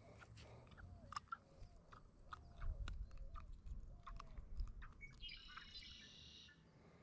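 Birds calling: a series of short, low whistled notes that fall in pitch, repeated about every half second to second, and a brief higher chirping phrase about five seconds in. Underneath are faint clicks and low thumps from handling the fish close to the microphone.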